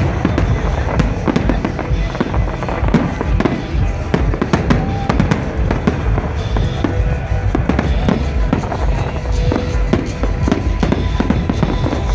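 Fireworks bursting in rapid, overlapping cracks and bangs over a continuous low rumble, with loud festival dance music playing underneath.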